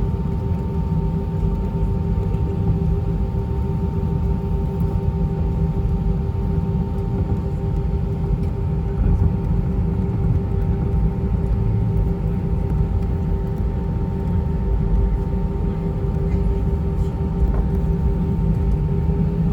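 Airbus A320-232's IAE V2500 turbofan engines idling, heard from inside the passenger cabin as a steady whine over a low rumble. Near the end the whine starts to rise in pitch as thrust comes up for the take-off roll.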